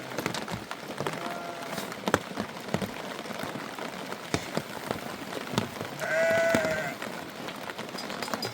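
Rain falling, with many sharp drop ticks over a steady patter, and one loud bleat from a sheep or goat of the flock about six seconds in.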